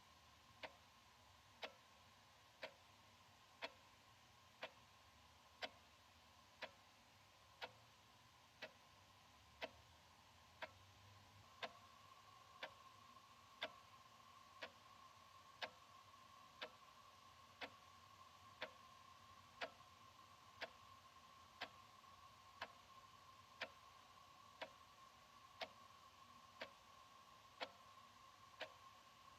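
Analog wall clock ticking steadily, about one sharp tick a second, with a faint steady hum underneath.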